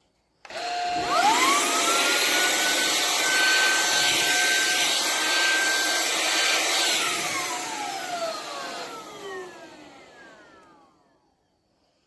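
Cecotec Scoba 2100 Twice cordless stick vacuum's digital motor switched on and running. Its whine climbs quickly to a steady high pitch over a rush of airflow. After about seven seconds it is switched off and winds down, the whine falling in pitch as it fades out.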